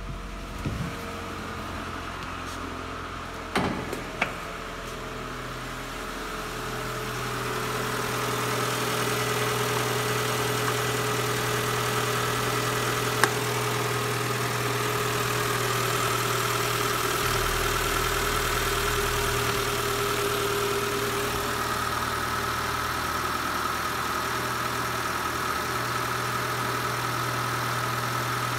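Renault Clio III's 1.2-litre D4F740 four-cylinder petrol engine idling steadily. It is first heard inside the cabin, then louder from about six seconds on, with a few sharp knocks a few seconds in.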